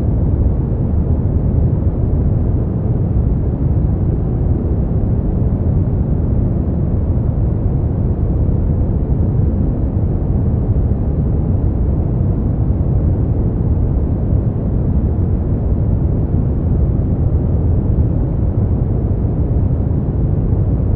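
Steady generated noise, a deep even rush with most of its weight in the bass and little treble.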